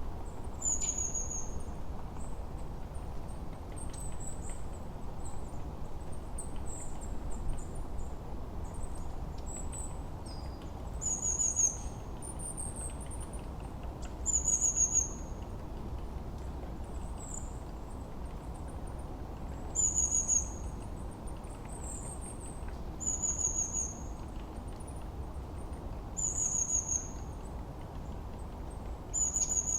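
Forest songbirds calling: a short, high call that drops in pitch repeats every three seconds or so, with thinner high chirps in between, over a steady low wind-like rush.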